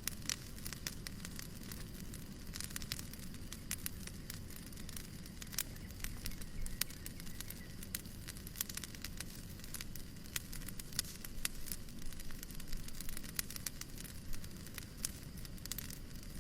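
Fireplace fire crackling, with many small irregular pops over a steady low hiss of white noise.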